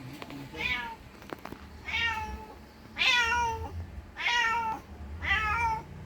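Domestic cat meowing five times, about a second apart, each call high and falling in pitch: a mother cat calling for her missing kitten.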